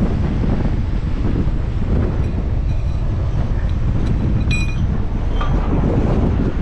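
Gale-force wind buffeting the camera's microphone through its wind guard, a steady rumble, with a brief high squeak about four and a half seconds in.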